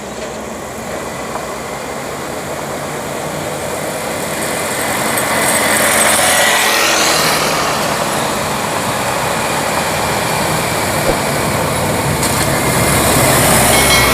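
Heavy logging truck's diesel engine running under load, growing louder over the first half as the truck comes closer, with a shift in pitch about halfway through.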